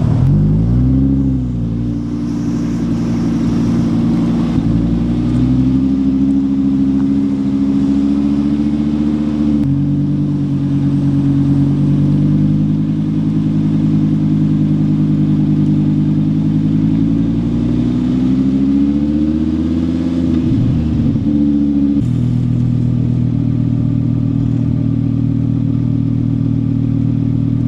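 Audi R8 Spider's V10 engine and exhaust on the move: the revs climb in the first second and settle into a steady drone. They rise again near the end of the second half and drop back. The engine note changes suddenly twice, about ten seconds in and again past twenty seconds.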